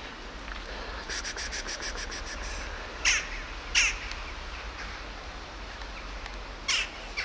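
Birds calling: a fast chattering run of about a dozen high notes starting about a second in, then short, sharp calls, two close together around three to four seconds in and one more near the end.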